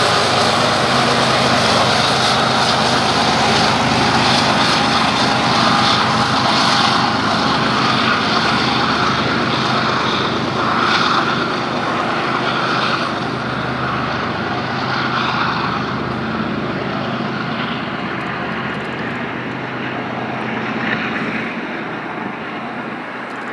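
Small quadcopter drone's propellers running with a steady buzzing whine, slowly fading over the last ten seconds or so.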